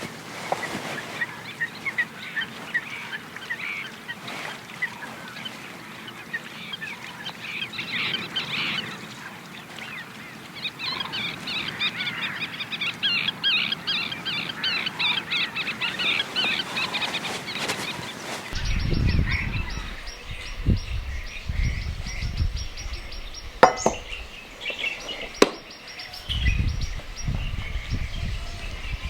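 Birds calling, with many short chirps. About two-thirds of the way through the sound changes abruptly to a low rumbling noise under the birdsong, with two sharp knocks a couple of seconds apart.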